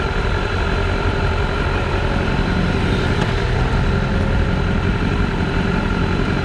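BMW S1000RR inline-four motorcycle engine running at steady revs under a dense, even noise that holds without changes.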